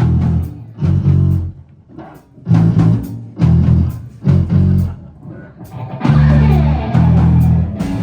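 Live rock band of electric guitar, bass guitar and drum kit playing distorted power-chord hits with short breaks between them. About six seconds in, the band moves into sustained playing with a moving guitar line.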